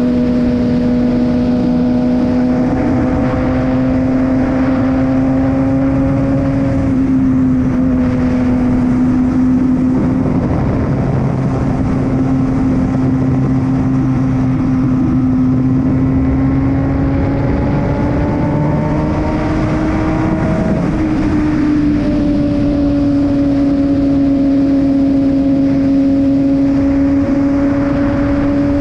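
Kawasaki ZX-6R inline-four engine running steadily under way, its pitch creeping up and shifting about 7 seconds in and again about 21 seconds in, with wind rushing over the microphone.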